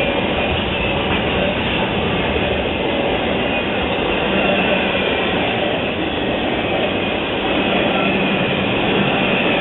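Intermodal freight train's cars rolling past: a steady rumble and rattle of wheels on rail.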